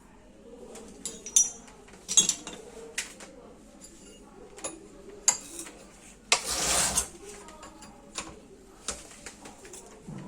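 Metal tools and parts of a sugarcane press clinking and knocking irregularly as it is worked on by hand, with a short rushing noise lasting about half a second a little past the middle.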